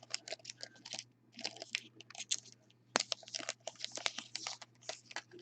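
Plastic wrapper of a trading-card pack crinkling and crackling as it is torn open and handled, in quick irregular bursts with a few sharp clicks.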